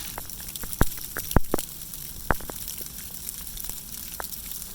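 Sleet, tiny ice pellets, falling with a steady high hiss and scattered sharp ticks as pellets strike nearby surfaces, a few louder clicks among them.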